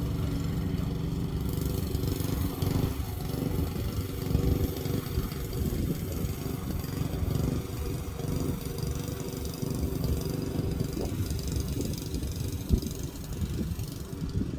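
Lawn mower engine running steadily, with a single sharp knock near the end.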